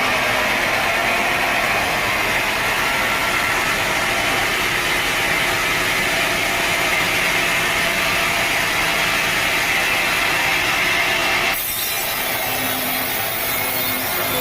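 Sawmill saw cutting steadily through a teak log, a loud, even grinding rasp of blade in wood. The sound changes abruptly about three-quarters of the way through, turning thinner and hissier.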